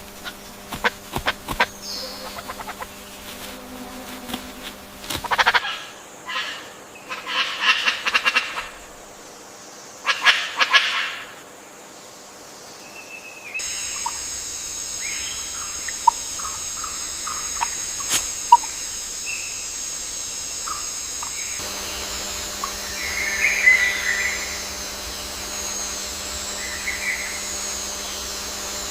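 Forest ambience with bird calls, made of several separate recordings that change suddenly two or three times. The first part has quick clicks and short chirps, the middle has bursts of calls, and the last part has a steady high ringing with scattered short calls.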